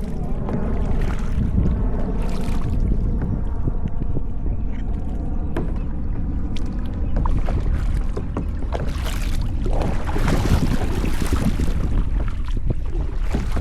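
Kayak paddle strokes splashing in the water over a steady rumble of wind on the microphone; the splashes come irregularly and are strongest and most continuous a little after the middle. A faint steady hum lies under the first half.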